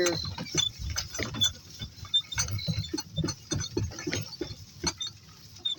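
Donkey-drawn cart rolling along at a walk: an irregular run of clicks, knocks and rattles from the cart and harness, several a second.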